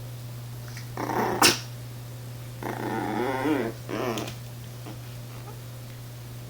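Chihuahua making small whining, grumbling growl noises while hesitating: a short one ending in a sharp snap about one and a half seconds in, then a longer wavering one and a brief last one.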